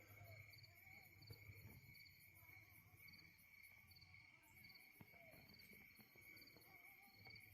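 Faint outdoor insect chorus, crickets: a steady high trill with a higher chirp repeating about one and a half times a second.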